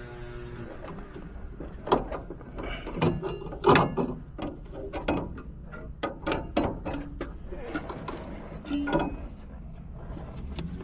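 Irregular metallic clicks, clanks and knocks of tools and parts being handled while working on a heat pump's refrigerant piping, with the loudest knocks about two and four seconds in.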